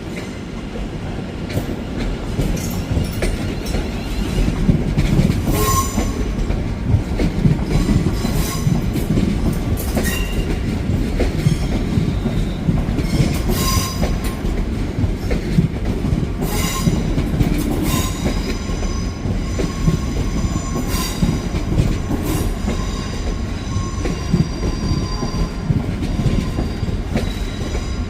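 A train running close by: a steady low rumble with clicks from the wheels over rail joints. About two-thirds of the way through, a high-pitched metallic wheel squeal sets in and keeps going.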